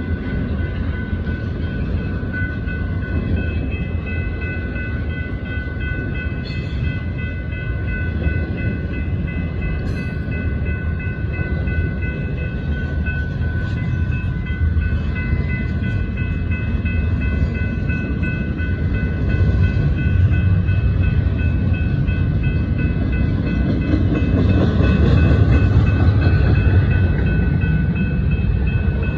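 Double-stack intermodal freight cars rolling past a grade crossing: a steady low rumble of wheels on the rails, with steady high ringing tones above it. The rumble grows louder about 24 seconds in.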